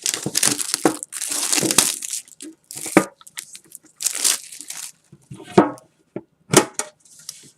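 Plastic shrink wrap being torn off a metal trading-card tin and crumpled by hand, in irregular crackling bursts with a few sharp clicks.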